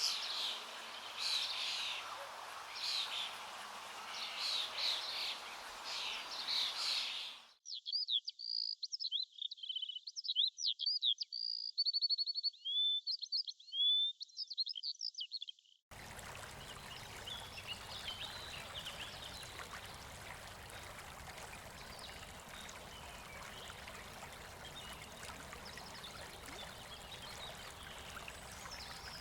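Wild birds singing repeated phrases over a steady background hiss. About seven seconds in, the sound cuts abruptly to clear, thin-sounding birdsong alone for about eight seconds. It then switches just as abruptly to a steady even rush with only faint chirps.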